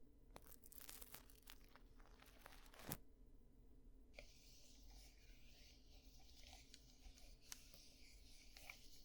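Ear-cleaning ASMR sounds close to the microphone. Faint scratching clicks come first, then about four seconds in a steady soft rustling scrape begins.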